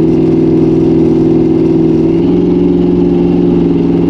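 LS-swapped V8 engine of a 1955 Chevy 210 wagon running at a steady speed under way, its pitch holding with a slight change about two seconds in.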